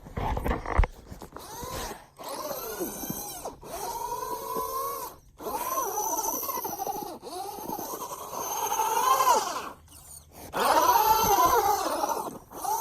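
Traxxas Rustler 2WD RC truck's electric motor whining in bursts, its pitch rising and falling with the throttle, with short breaks between runs. A loud low thud comes just after the start.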